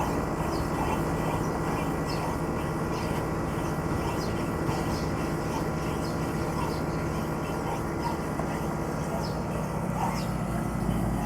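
Air conditioner outdoor unit running with an abnormal noise: a steady hum with several fixed tones. Faint short chirps come and go on top.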